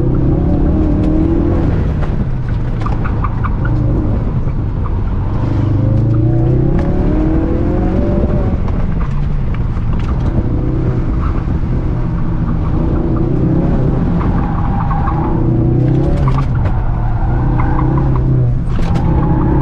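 2017 Ford Focus engine heard from inside the cabin, driven hard through an autocross course: its note climbs as the car accelerates on the straights and drops back for braking and corners, several times over.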